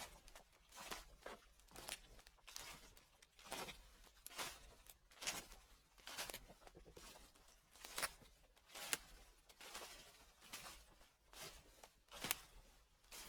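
Faint footsteps crunching through dry fallen leaves, a slow, even walk of about one step a second.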